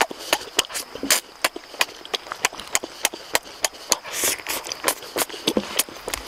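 Close-miked wet chewing and lip-smacking of a person eating cooked squid tentacles by hand: quick, irregular smacks about four a second, with a short sucking slurp about four seconds in.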